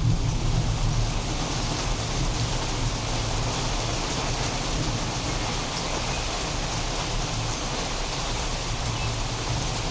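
Steady rain falling in a thunderstorm, an even hiss of drops on surfaces. A low rumble of distant thunder tails off over the first few seconds.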